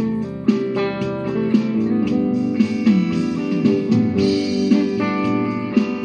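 Guitar music: plucked guitar notes in a steady rhythm, a few of the low notes sliding in pitch.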